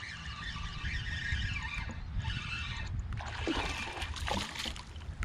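Water trickling and splashing close by, with a run of sharper splashes in the second half over a steady low rumble.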